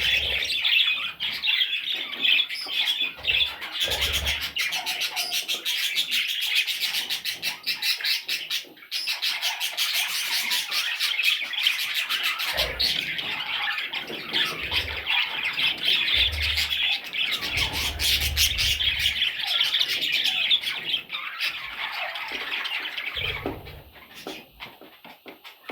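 A group of young budgerigars chattering and squawking without pause, a dense scratchy warble that thins out near the end, with a few dull low bumps.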